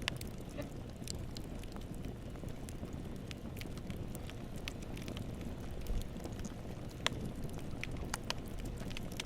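Campfire burning with a steady low rumble of flames and scattered sharp crackles and pops of burning wood.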